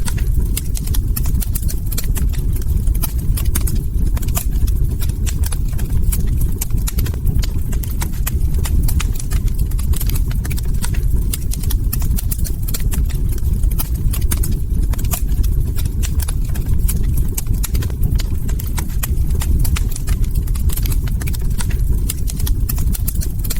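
Log fire crackling: dense, irregular pops and snaps over a steady low rumble of burning wood.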